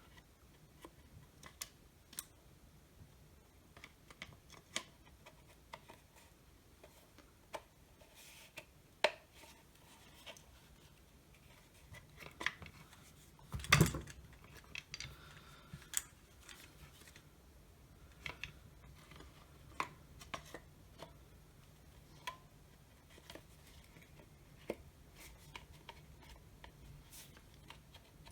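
Scattered light clicks and taps of drill parts being handled and set down on a workbench, with one louder knock about halfway through.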